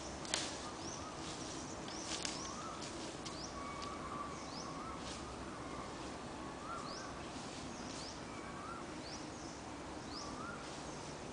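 Birds calling: short rising chirps, some high and some lower, repeated every second or so over a steady background hiss. A sharp click about half a second in, the loudest moment, and two smaller clicks around two seconds.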